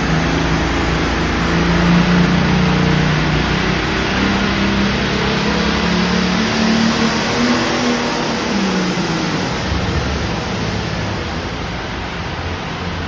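Turbocharged diesel engine of a John Deere Super Farm pulling tractor running hard under full load down the pull track, with a rising high turbo whine partway through. The engine note drops away about nine seconds in, leaving a steady rushing noise.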